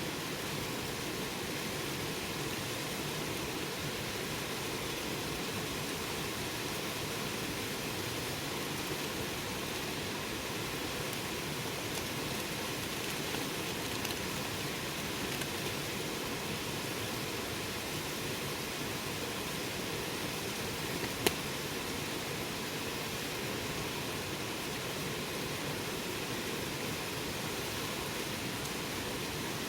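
Campfire burning: a steady rushing hiss with a few faint crackles, and one sharp pop about two thirds of the way through.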